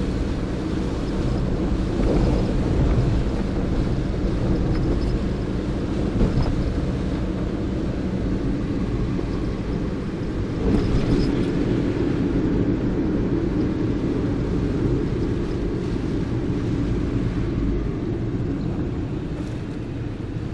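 Gusty wind buffeting the microphone as a low rumble, swelling in gusts about two and eleven seconds in and easing near the end.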